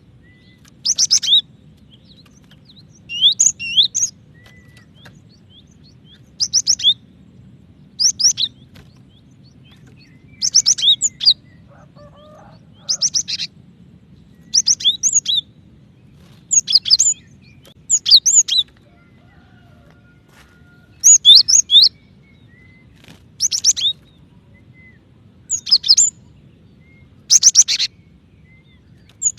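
Female cinereous tit (gelatik batu) calling: short bursts of a few quick, high chirps, repeated about every two seconds.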